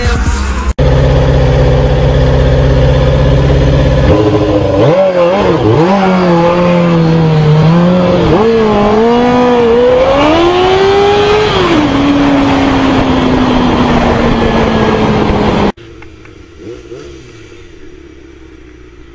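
Sport motorcycle engine heard from the rider's seat: a steady loud drone, then revving up and down as the bike accelerates through the gears, climbing to its highest pitch about eleven seconds in and winding slowly down as it slows. A few seconds before the end the sound cuts suddenly to a much quieter engine.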